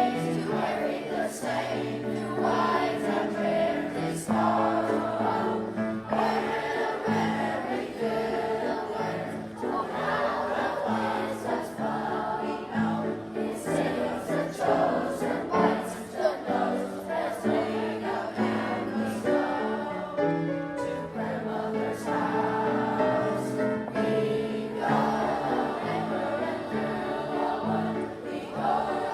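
Children's choir singing a song with musical backing, with a brief break between phrases about two-thirds of the way through.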